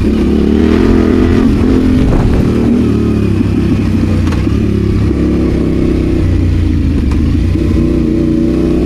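Adventure motorcycle engine running off road, the revs rising and falling in the first few seconds and then holding steadier.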